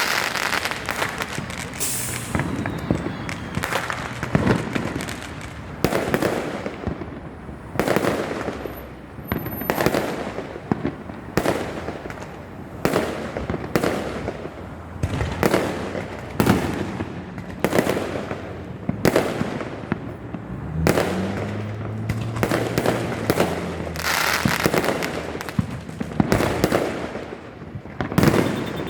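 Aerial fireworks going off in quick succession, a sharp bang roughly every second, with crackling and echo between the bursts.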